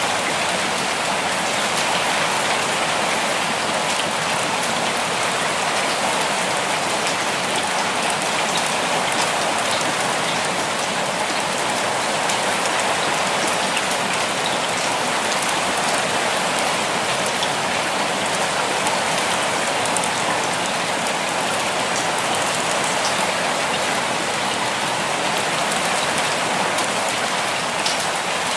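Steady rainfall, a dense even hiss of drops with faint scattered individual drop ticks.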